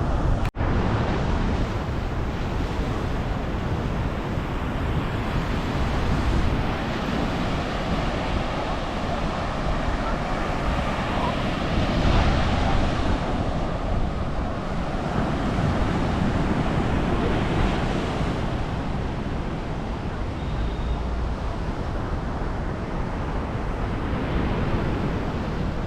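Surf breaking on a sandy beach, a steady wash that swells every few seconds as waves come in, with wind buffeting the microphone.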